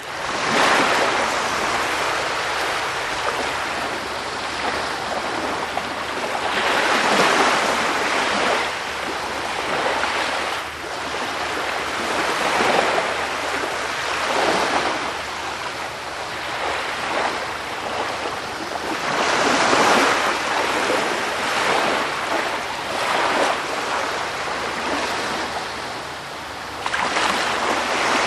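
Sea surf: waves washing in continuously, swelling and easing every few seconds.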